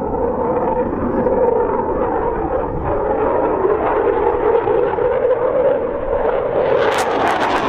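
Dassault Rafale fighter's twin jet engines running loud and steady during a display pass, turning harsher and crackly near the end.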